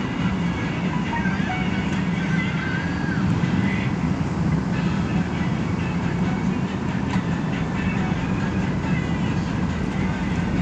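Interior sound of an express commuter bus under way: a steady low engine drone with road and tyre noise, and faint squeaks and rattles from the cabin.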